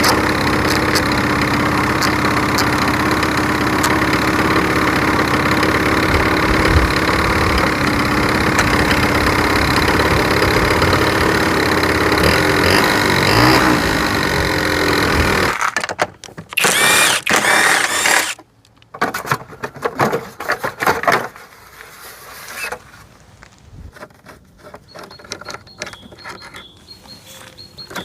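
Honda Leader AF03 scooter's two-stroke engine running steadily, then cutting off abruptly about halfway through. After it stops come a brief louder sound lasting a couple of seconds and scattered light clicks and knocks.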